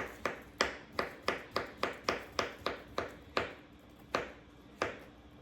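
A quick, even run of light, sharp taps in kitchen food preparation, about three a second, thinning to a couple of spaced taps near the end.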